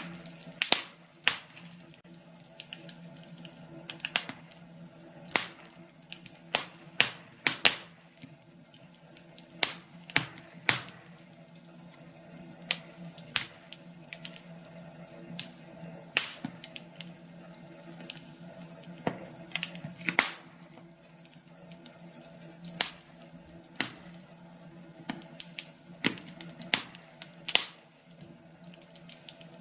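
Wood fire crackling in a fireplace: irregular sharp pops and snaps, sometimes several in quick succession, over a steady low background of the burning.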